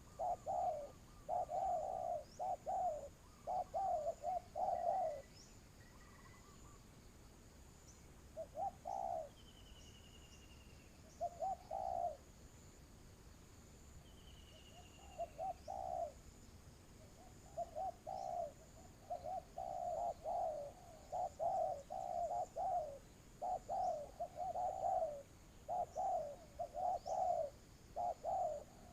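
Spotted dove cooing: repeated low, soft coos in runs of several notes, pausing for a few seconds near the middle, then coming thick and fast in the second half. A few faint, higher chirps of small birds are heard in the pause.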